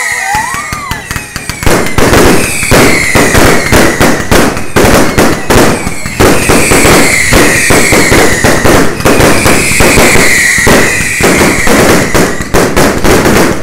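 Fireworks display: aerial shells bursting in quick succession, very loud, with dense, rapid crackling that starts about two seconds in. Repeated whistles falling in pitch sound over the crackle.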